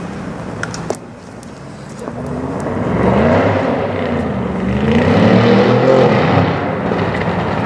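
Audi RS6 C7's twin-turbo 4.0 V8 through a decatted Milltek exhaust, going from a quieter hum to a loud, hard run about two seconds in. The engine pitch climbs, dips briefly, climbs again to a peak and then eases off.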